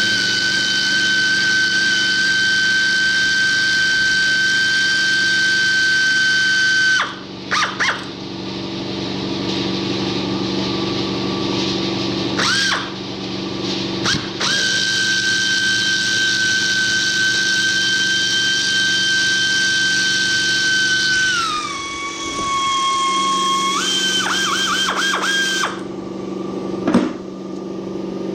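Pneumatic air tool whining at a steady high pitch in two long runs, dropping in pitch under load about 21 seconds in and ending in a few quick pulses, over the steady low running of an air compressor.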